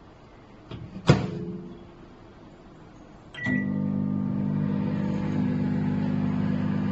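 Sharp 20-litre microwave oven: its door shuts with a sharp knock about a second in. A couple of seconds later, after a brief click, the oven switches on and runs with a steady electrical hum.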